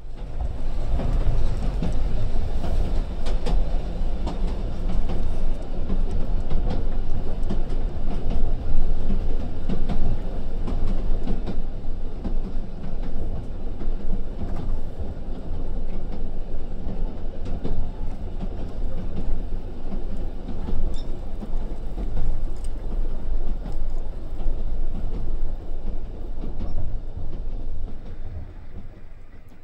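A train running on rails: a steady low rumble with frequent clicks from the wheels and track, easing off near the end.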